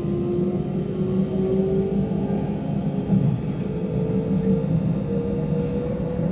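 Keihan electric train accelerating: the traction motor's whine rises steadily in pitch over a continuous running rumble.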